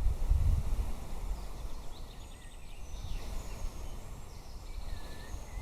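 Wind buffeting the microphone as a low rumble, strongest in the first second, with small birds chirping and singing from about two seconds in: short trills and falling whistled notes.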